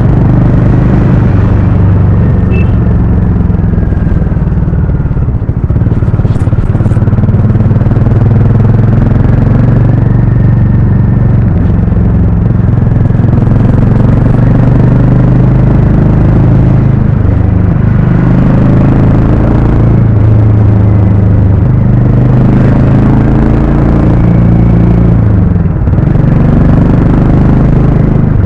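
Harley-Davidson X440's single-cylinder engine running while riding, a loud steady exhaust note whose pitch drifts up and down with the throttle.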